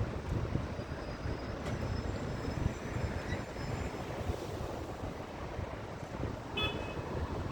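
Steady low rumble of buses and road traffic at a bus station, with a few faint high whistling tones early on and a short high-pitched squeal, like a bus brake, near the end.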